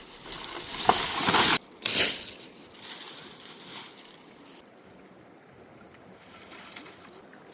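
Water splashing and sloshing, loudest in two bursts in the first two seconds and cut off sharply between them, then settling to a faint steady rush of water.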